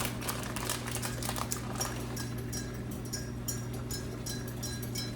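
Chicken, peppers and onions sizzling in a pan on the stove, a steady run of quick, irregular crackles over a constant low hum.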